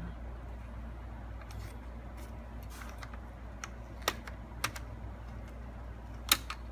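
Scattered sharp plastic clicks and taps from a laptop's parts and small tools being handled during disassembly, over a steady low hum. The loudest clicks come about four seconds in and again just after six seconds.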